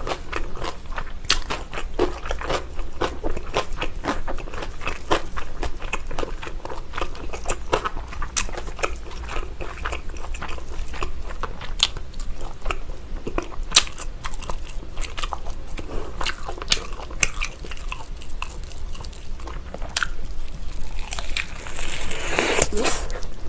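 Close-miked biting and chewing of a whole braised pig's trotter (jokbal), with many small wet clicks and smacks from the mouth. A louder, longer noise comes about two seconds before the end.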